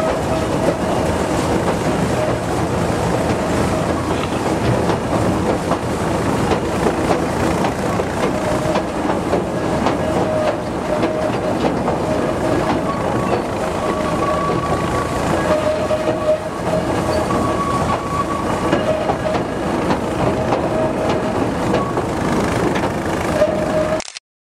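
Narrow-gauge light railway train running along the track, heard from an open carriage behind a Simplex diesel locomotive: a steady rumble of wheels and engine with a faint on-and-off tone. The sound cuts off abruptly near the end.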